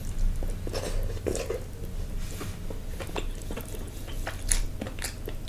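Close-miked chewing and mouth smacking of a person eating a saucy seafood boil: a run of short wet smacks and clicks.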